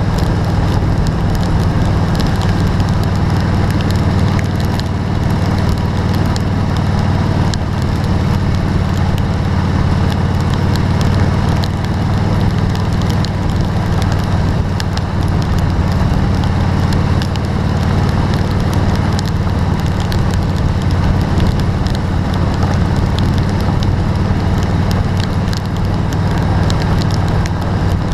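Steady rain falling, with scattered drop ticks over a constant low hum.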